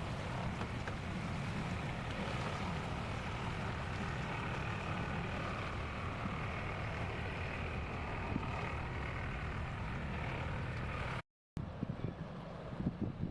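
Heavy tractor units' diesel engines running steadily under load, a low rumble with wind noise on the microphone. The sound cuts out briefly about 11 seconds in and comes back as a gustier, uneven wind-and-engine noise.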